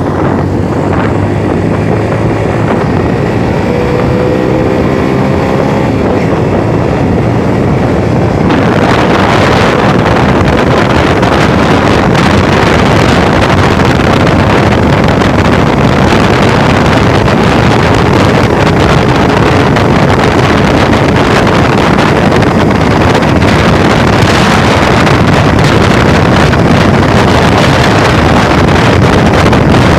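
Motor vehicle engine running and accelerating under way, its note rising over the first several seconds. About eight seconds in, loud wind rushing on the microphone takes over and stays.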